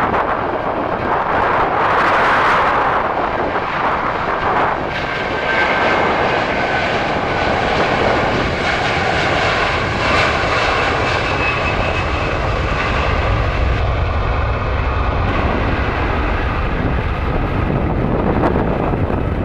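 Jet airliner's engines running, a steady loud rushing noise with a faint high whine through the middle of it.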